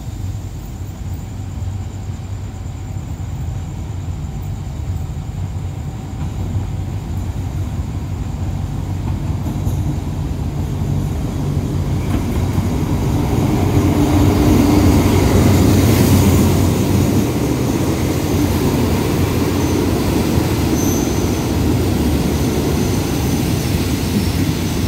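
Diesel-hauled passenger train pulling into the station: the locomotive's engine and rolling wheels grow steadily louder as it approaches, loudest about fifteen seconds in as it passes, then ease off a little as the coaches roll by.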